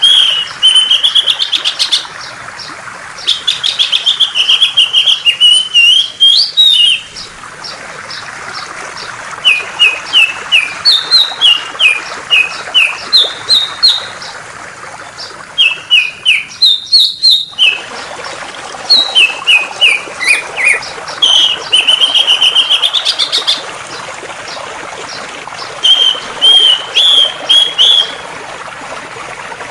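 A songbird sings phrase after phrase of rapid, high chirps, some in short runs that fall in pitch, over the steady rush of flowing water.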